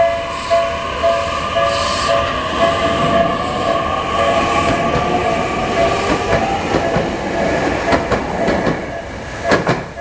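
Japanese level-crossing alarm bell clanging about twice a second as a Tokyu Ikegami Line electric train passes over the crossing. The train's running noise and a rising whine swamp the bell in the middle, and its wheels click over rail joints in quick pairs near the end.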